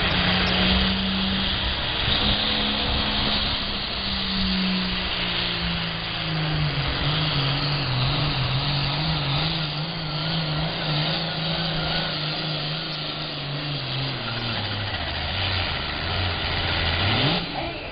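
A John Deere 4430 pulling tractor's turbocharged six-cylinder diesel runs at full throttle down the track dragging a weight-transfer sled, loud throughout. Its pitch sinks slowly as the sled's load builds and the engine lugs down, then turns sharply upward near the end as the load comes off.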